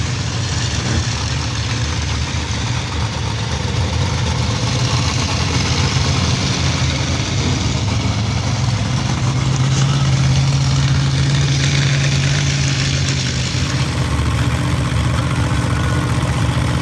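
Monster truck engine noise: a loud, steady low rumble that swells a little partway through.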